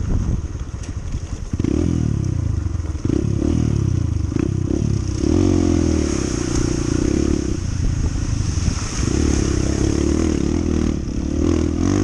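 Honda CT125's single-cylinder four-stroke engine running while riding, its pitch rising several times as it accelerates and dropping in between as it shifts or eases off.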